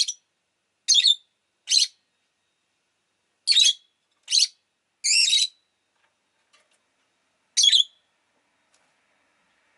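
Rosy-faced lovebird calling: seven short, high chirps at irregular intervals with quiet between, the one about five seconds in a little longer than the rest.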